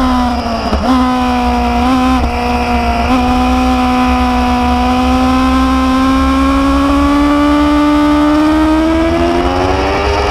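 Motorcycle engine running under way, its pitch dipping briefly about a second in with two short blips soon after, then climbing slowly and steadily as the bike accelerates.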